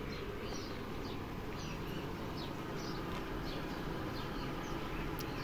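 Small birds chirping: many short, falling calls scattered through, over a faint steady background noise.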